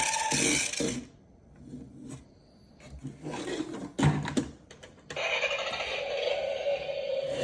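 A small motor whirring steadily stops about a second in. Scraping and rubbing sounds follow, with a sharp knock about four seconds in. The motor starts whirring again about five seconds in.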